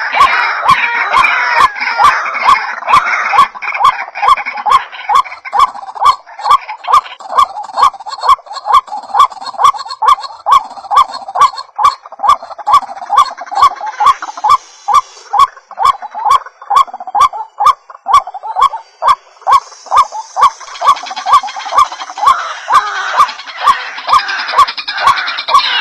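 White-breasted waterhen (ruak-ruak) calls played as a bird-lure track: a long run of quickly repeated calls, with several birds overlapping near the start and again toward the end. A sharp regular tick runs under them about twice a second.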